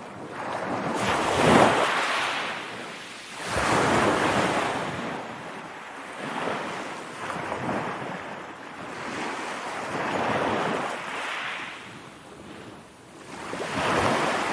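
Ocean waves breaking and washing in one after another, the sound swelling and ebbing every two to three seconds, loudest about a second and a half in.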